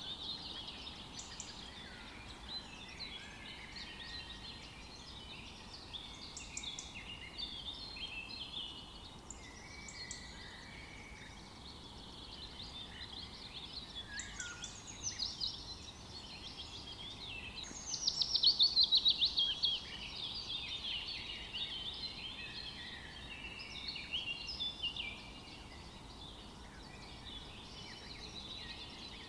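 Several songbirds singing and chirping together over a faint steady hiss of forest ambience. About two-thirds of the way through, one bird gives a loud, fast trill that falls in pitch.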